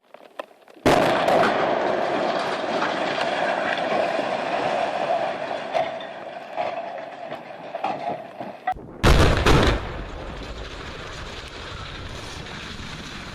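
Demolition footage sound: a sudden loud blast about a second in, followed by several seconds of dense, steady collapse noise. About nine seconds in come two more sharp, loud blasts close together, then lower steady noise.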